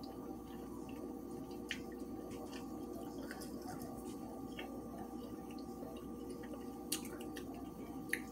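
Close-miked eating sounds: soft wet chewing and mouth clicks, with two sharper clicks near the end. Under them runs a steady hum with several held tones.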